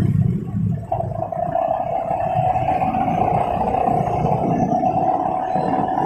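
Motorcycle running along a road in traffic: a continuous low engine and road rumble, joined about a second in by a steady whine that holds on.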